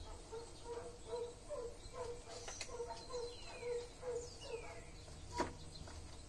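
Outdoor bird calls: a run of short low notes repeating about two or three times a second, with a few higher whistles sliding downward in the middle. A sharp knock comes about five seconds in.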